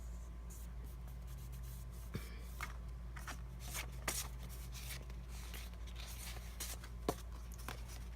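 Planner stickers and paper being handled: irregular soft rustles and crinkles, a few sharper ones, over a steady low electrical hum.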